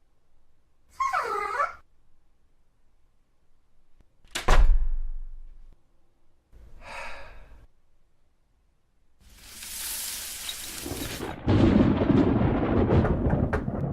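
Cartoon sound effects: a brief creature-like cry about a second in, a heavy thud with a deep boom, another short cry, then a hissing rush that gives way to a loud, dense crackling rumble near the end.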